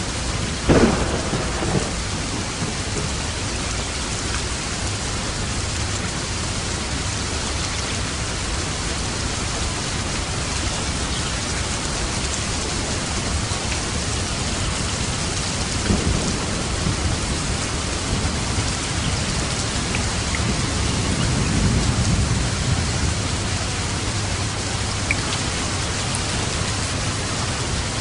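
Steady heavy rain falling, with thunder: a sharp crack about a second in, then low rumbles of thunder around the middle and later.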